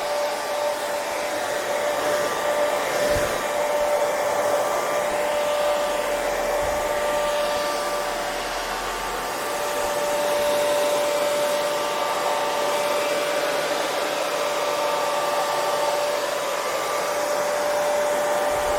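Hair dryer running steadily: an even blowing hiss with a constant motor whine.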